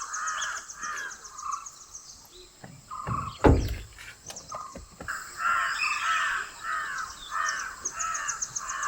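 Birds calling in a steady series of harsh notes, about three a second. The calls break off for a few seconds in the middle, and a loud thump comes about three and a half seconds in. A fast, faint, high-pitched ticking runs behind the calls.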